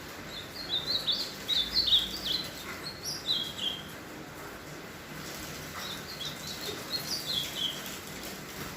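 Ultramarine grosbeak (azulão) singing two warbled phrases of quick, high notes that jump up and down, each phrase ending on falling notes; the second phrase comes a couple of seconds after the first and is softer. The bird is finishing its moult and singing again.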